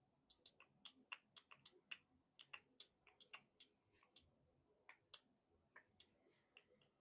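Faint, irregular small clicks and taps of board-game dice and tokens being handled and set down on a table, a few clicks every second.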